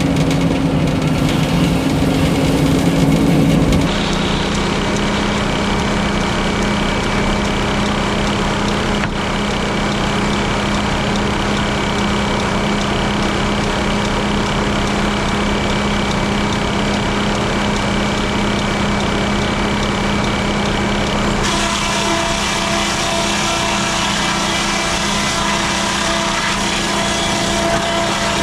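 A Frick sawmill running on its engine power unit, with a steady engine drone. About four seconds in the engine note drops to a lower pitch and stays there, and the higher sound changes again after about twenty seconds.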